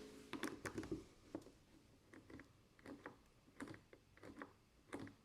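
Near silence with a few faint scattered ticks and taps; the tractor's fuel solenoid gives no click.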